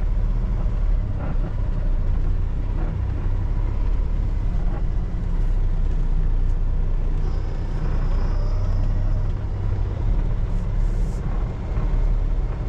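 Kenworth T680 semi truck's diesel engine running steadily as the truck moves slowly, heard from inside the cab, with a short air hiss near the end.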